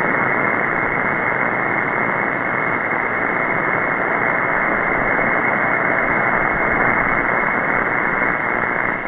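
Steady shortwave band hiss from an SDRplay RSPduo receiver in upper-sideband mode on the 20-metre amateur band, heard through the narrow sideband filter between transmissions while no station is keyed up.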